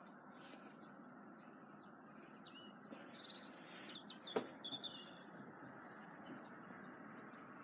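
Small birds chirping and twittering in short high calls, thickest in the middle, over a faint steady background hiss. A single sharp click a little past four seconds is the loudest sound.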